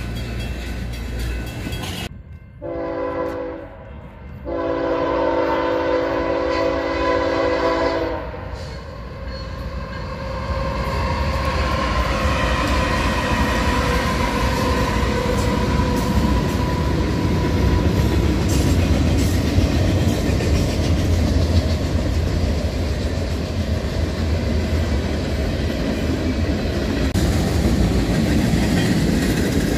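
Diesel freight locomotive's air horn sounding a short blast and then a longer one of about three and a half seconds. The BNSF locomotive then passes close by, its diesel engine rumbling over the rolling wheel noise, and freight cars clatter past over the rail joints near the end.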